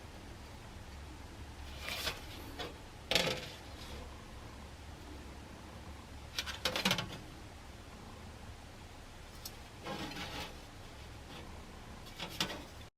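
Intermittent handling noises: a few separate clinks, scrapes and rubs of small metal stove parts being picked up and set down, over a low steady hum. The sound cuts off abruptly near the end.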